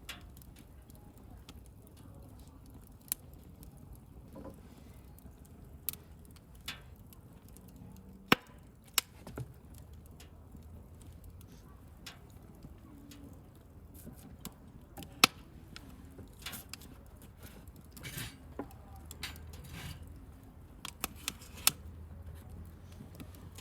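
Wood bonfire crackling: irregular sharp pops and snaps, the loudest about eight and fifteen seconds in, over a low soft rumble of burning.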